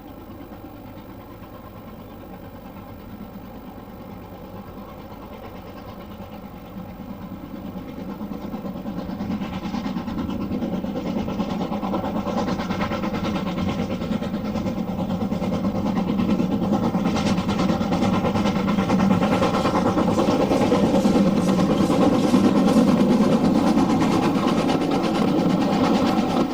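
Diesel train engine running steadily, growing much louder over about fifteen seconds as it draws near.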